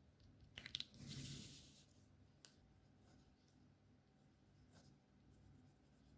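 Alcohol marker work on paper, heard quietly: a few light clicks just before a second in, then a short scratchy marker stroke, and another faint click about two and a half seconds in.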